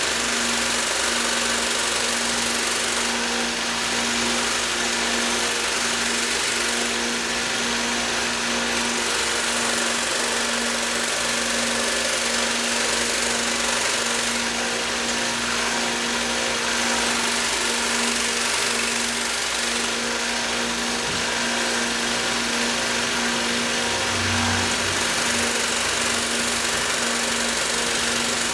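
Belt grinder running steadily with a fine micron abrasive belt, polishing a knife edge: a constant motor hum under a dense hiss that eases off and comes back every few seconds.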